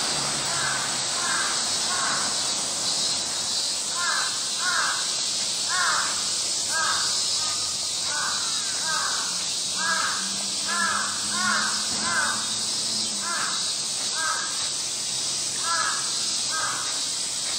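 A bird calling over and over, short pitched calls coming singly, in pairs and in quick runs, over a steady high hiss.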